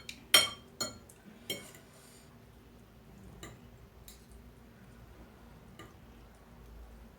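Cutlery clinking against a bowl of noodles while eating: three sharp clinks in the first second and a half, then a few fainter taps.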